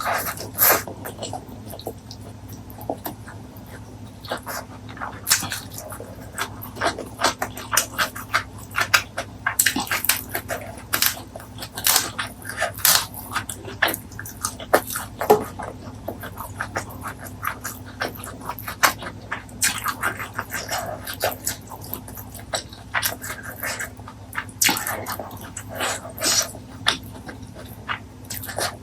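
Close-miked eating sounds: chewing, lip smacks and wet mouth clicks coming irregularly and densely, over a steady low hum.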